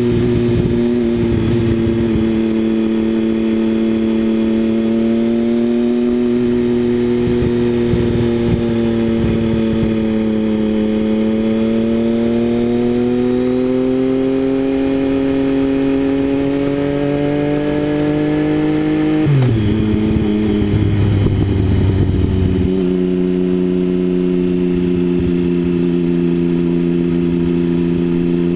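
Triumph Speed Triple 1050's three-cylinder engine through a Mivv aftermarket exhaust, running at steady revs that rise and fall gently. About two-thirds of the way in the revs drop sharply, with a few seconds of rough, uneven exhaust note off the throttle. It then holds at lower revs and climbs again near the end.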